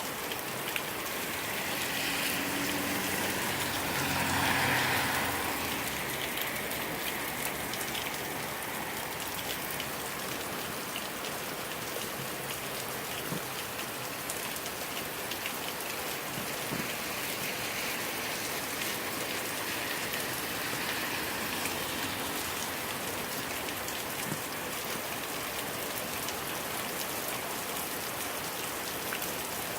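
Heavy rain falling steadily, with drops pattering on hard surfaces. The rain noise swells briefly about four seconds in.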